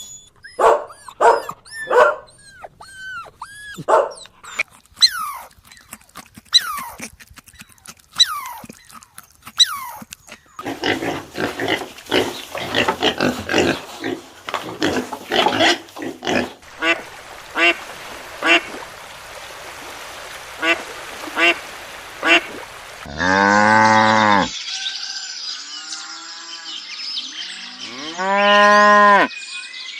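Farm animals calling one after another. First comes a quick series of short calls, then a dense stretch of many overlapping calls. Two long, loud, moo-like calls follow, about 23 and 28 seconds in.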